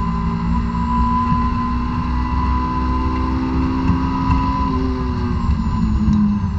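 2006 Honda S2000's 2.2-litre four-cylinder engine pulling hard at high revs, heard from inside the cabin, its pitch climbing steadily as the car accelerates. About five seconds in, the pitch drops as the car slows for the next corner.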